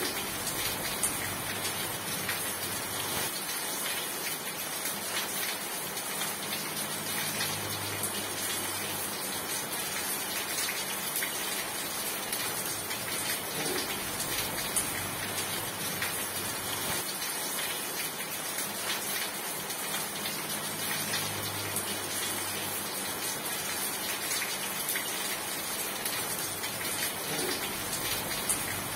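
Steady heavy rain falling, a dense even hiss of many drops with scattered sharper ticks of individual drops. A faint low hum swells and fades twice under it.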